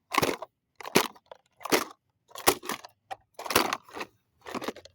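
Plastic toy microwave being smashed: about six hard blows, roughly one a second, each landing with a crunch of breaking plastic.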